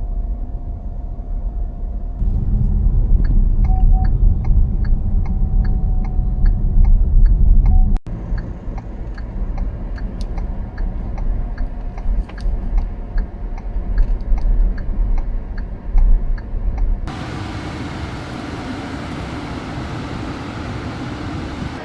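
Car on the move, heard as a low road rumble with regular faint ticking about twice a second. Near the end it changes to a broader, hissier noise.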